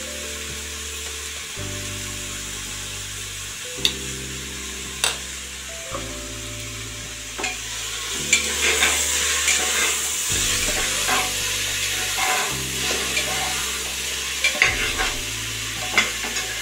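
Bottle gourd pieces sizzling as they fry in an aluminium pressure cooker, stirred with a steel ladle that scrapes and clinks sharply against the pot several times.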